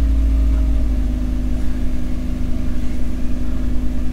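Carburetted 2-litre engine of a 1985 Mazda HB coupe idling on a cold start, with the choke just eased partly in. The idle runs on with a slight uneven pulse.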